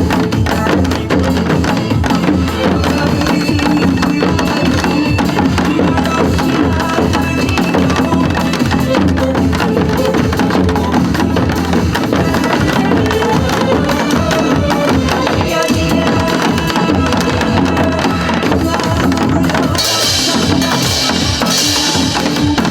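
Several janggu hourglass drums beaten together in a steady, dense rhythm over a backing track of Korean popular song. Near the end there is a short, bright rush of hiss.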